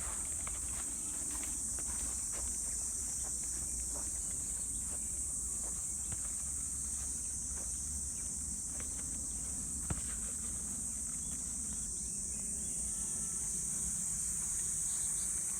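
Steady, high-pitched chorus of insects, with the faint irregular crunch of footsteps on a trail.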